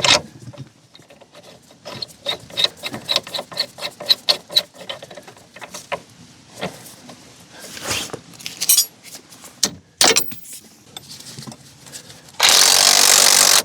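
Hand tools working on rusty strut hardware: a quick run of evenly spaced clicks like a ratchet wrench, then scattered metal clicks and knocks. Near the end a power tool runs loudly, stops for a moment, and runs again.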